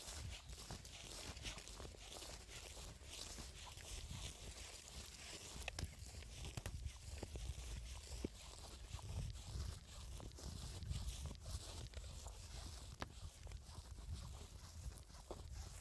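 Footsteps through vegetation, with rustling and scattered small clicks and snaps of stems and twigs.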